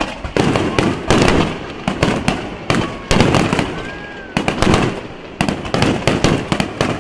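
Fireworks display: aerial shells bursting in quick succession, a dense run of booms and crackles several a second, the loudest about one and three seconds in.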